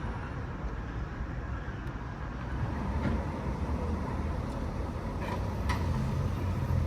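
Steady low rumble of vehicles, with a few short clicks about three seconds in and again twice near the end.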